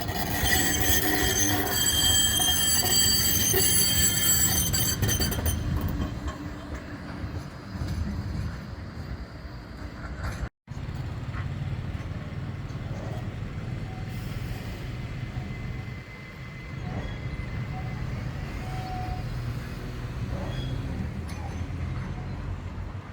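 Tram running on rail, its wheels squealing with several high, steady tones for the first five seconds or so, then a steady low rumble as it rolls on. The sound cuts out for an instant about ten seconds in.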